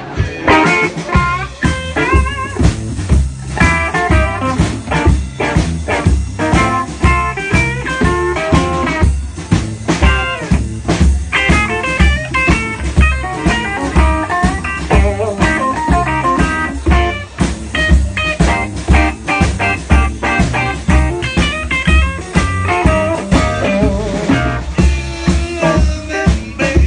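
Live blues band playing an instrumental passage: guitar lines over heavy bass and a steady beat, with no singing.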